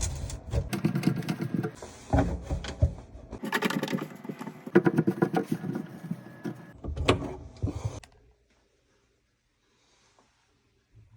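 Hands working on under-sink plumbing parts: scraping, rattling and knocking, stopping suddenly about eight seconds in.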